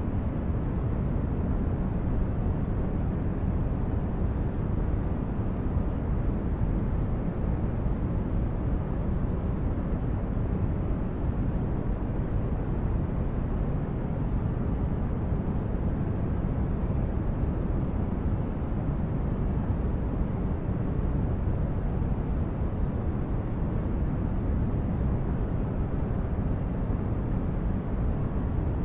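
Synthesized sci-fi spaceship ambience: a steady, low-weighted noise like brown noise, even throughout with no distinct events.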